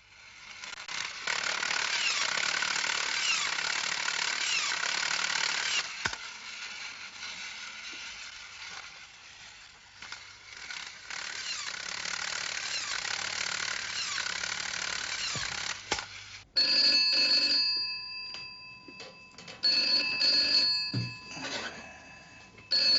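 Telephone bell ringing in repeated rings, starting a little past the middle, each ring lasting about a second and a half with pauses between.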